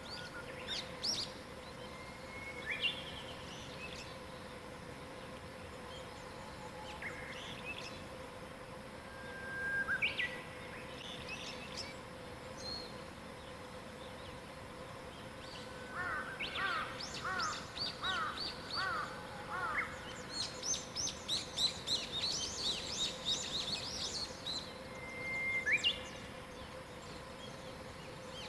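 Several wild birds singing. Scattered whistles and chirps are joined about halfway through by a phrase of repeated looping notes, then a rapid high trill lasting several seconds. A faint steady hum runs underneath.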